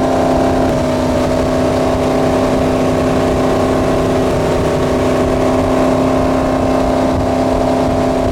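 Wake boat's inboard engine running at a steady speed: a constant drone with a slight shift in pitch about a second in.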